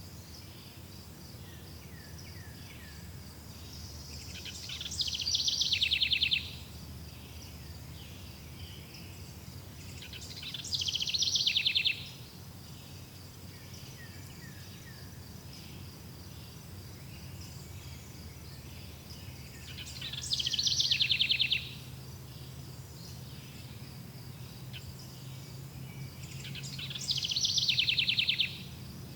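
Nature soundscape of insects: a steady high chirping throughout, broken four times by a loud, rapid trill that builds over a second or two and then stops suddenly. A low steady hum runs underneath.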